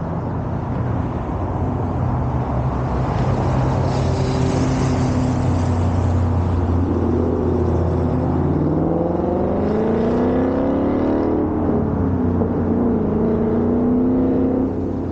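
2021 Mustang GT's 5.0 V8 through a Borla ATAK cat-back active exhaust, running at steady revs and then accelerating, its pitch rising for a few seconds. About eleven seconds in the pitch drops quickly, as in an upshift, and then climbs again.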